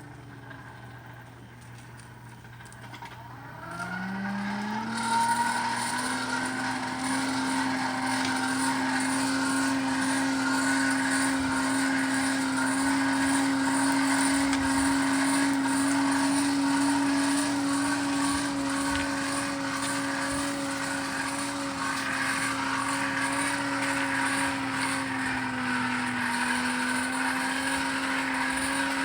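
An electric forge blower spins up about four seconds in, its pitch rising, then runs with a steady whine. The pitch dips slightly near the end.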